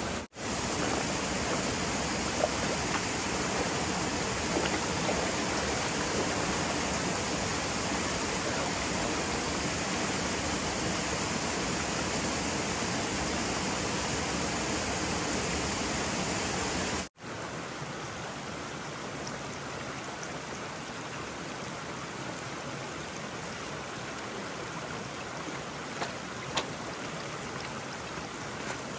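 Rushing water of a stream, a steady even rush with no rhythm; it drops noticeably quieter about 17 seconds in.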